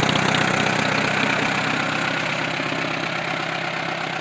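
1947 Allis-Chalmers C tractor's four-cylinder gasoline engine idling steadily seconds after a cold start, on choke, gradually settling a little quieter.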